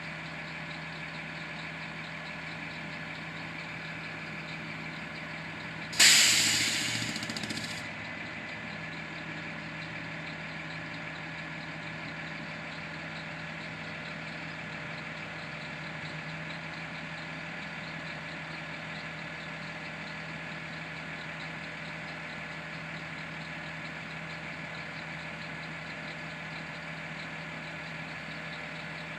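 Garbage truck's engine idling steadily, with its relief valve going off once about six seconds in: a loud sudden hiss lasting about two seconds that fades out. At this low idle the hisses come less often.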